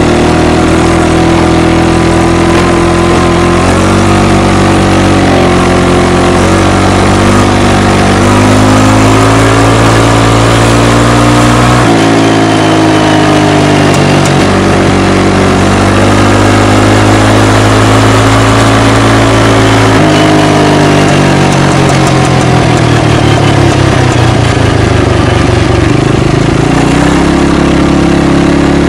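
ATV engine running loud through its exhaust with the end silencer removed, heard right at the tailpipe. Engine speed steps and glides up and down, with a sharp rise about twelve seconds in, a drop around twenty seconds and another climb near the end.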